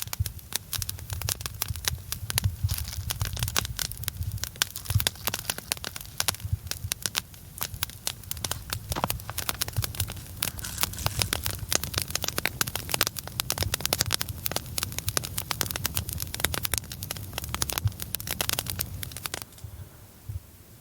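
Larch-wood campfire burning with dense, irregular crackling and popping over a low steady rumble; the crackling stops shortly before the end.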